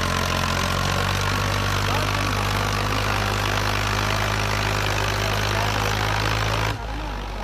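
Ford tractor's diesel engine running at a steady idle. Near the end the sound drops off abruptly and becomes quieter.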